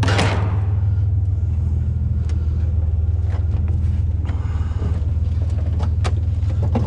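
Truck engine idling with a steady low hum, a sharp knock right at the start, and a few scattered light knocks and taps.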